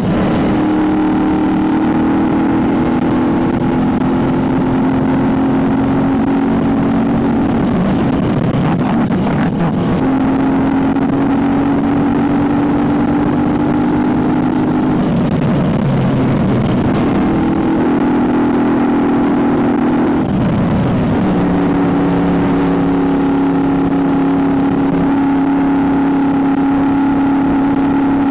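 Moto Guzzi V35's air-cooled V-twin under way, its steady note held at cruising revs, with the note breaking and shifting in pitch about a third, a half and two thirds of the way in as the throttle and revs change.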